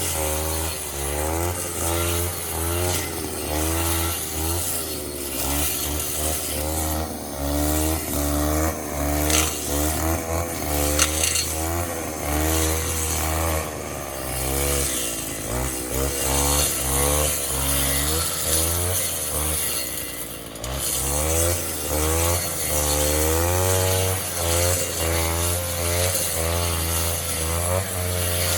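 Robin grass cutter's small petrol engine running at speed, its pitch wavering up and down over and over.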